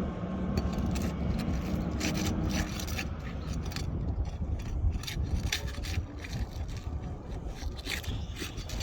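Roof shingles scraping and crackling as they are pried up and worked loose to get at a damaged shingle, with irregular sharp clicks over a steady low rumble.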